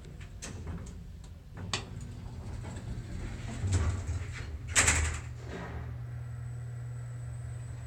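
Payne traction elevator in operation: a few sharp clicks, a louder sliding rush about five seconds in, then a steady low hum as the machine runs.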